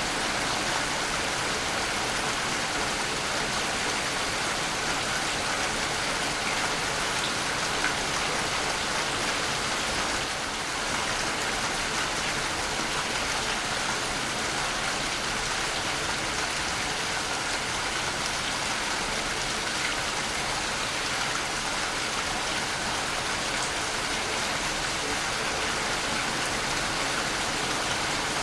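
Waterfall: a steady rush of falling water that splashes down, with a brief slight dip about ten seconds in.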